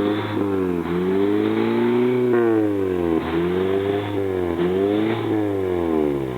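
Car engine being revved, its pitch climbing and falling repeatedly in long sweeps.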